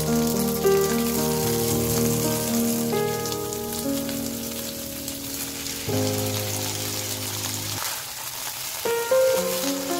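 Chopped green vegetables sizzling as they hit hot oil in a frying pan and keep frying, a steady hissing sizzle, over background music.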